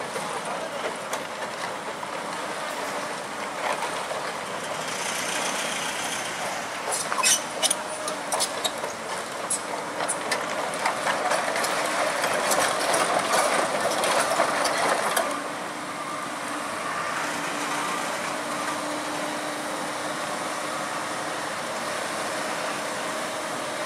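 Heavy machinery working: a steady engine noise with a run of sharp metallic clanks and knocks about seven to ten seconds in. The noise grows louder until about fifteen seconds in, then drops back suddenly to a steadier level.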